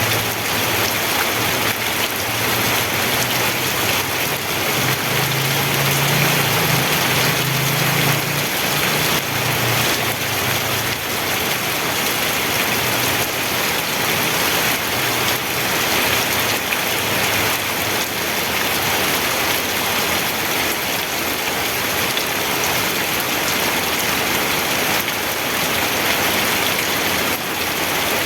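Steady, heavy rain falling and pattering on surfaces, with a low rumble underneath for about the first ten seconds.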